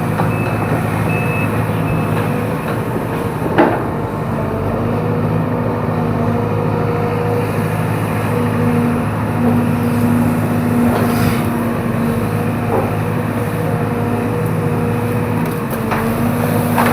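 Excavator diesel engine running steadily, with its travel alarm beeping repeatedly for about the first two seconds, then stopping. A few sharp knocks or cracks come through, one about three and a half seconds in and another about eleven seconds in.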